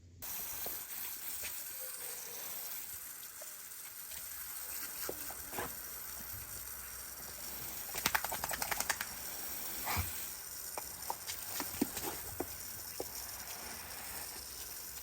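A steady high hiss with scattered small clicks and knocks, and a quick run of clicks about eight seconds in.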